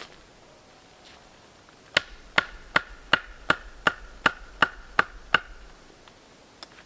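About ten quick, evenly spaced strikes, roughly three a second, each with a short ringing tone: a hand tool hitting wood at a work site.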